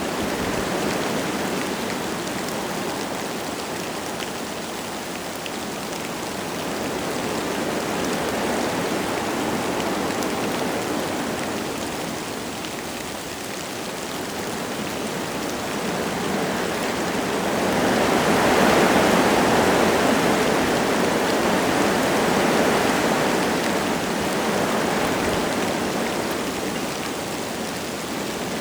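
Wind gusting through forest trees with light rain falling: a steady rushing that swells and eases, loudest in a gust about 18 seconds in.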